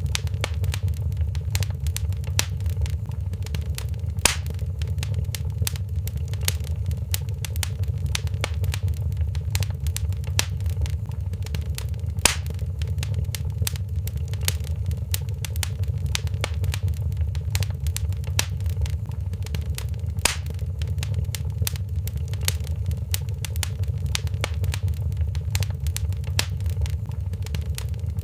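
Wood fire crackling in a fireplace: dense, irregular small pops over a steady low rumble. A few louder snaps stand out, about four, twelve and twenty seconds in.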